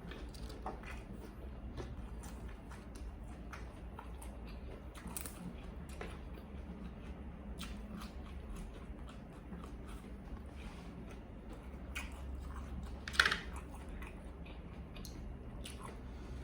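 A person chewing and biting food close to the microphone: soft crunches and wet mouth clicks, with one louder, sharper sound about 13 seconds in.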